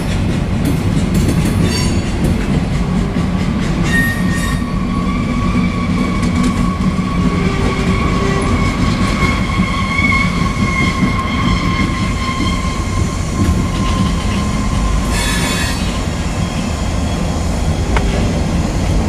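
Loaded freight cars (covered hoppers and tank cars) rolling past, a steady rumble of steel wheels on rail. A long, thin wheel squeal runs through the middle, with a sharper screech near the end.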